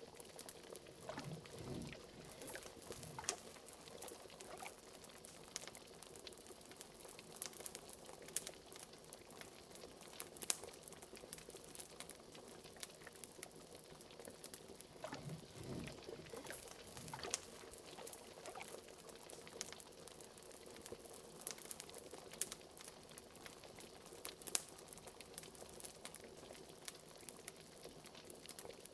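Liquid bubbling in a cauldron, with occasional deeper glugs, over the steady crackle of a wood fire: many small sharp pops throughout.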